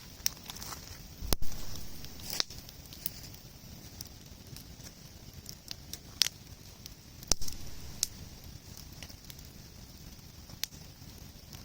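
Wood campfire crackling, with sharp irregular pops over a steady hiss; the loudest pops come about a second in and about seven seconds in.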